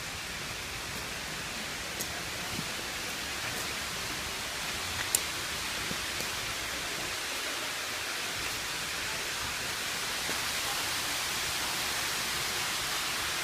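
Steady outdoor hiss that grows slightly louder over the last few seconds, with a couple of faint clicks.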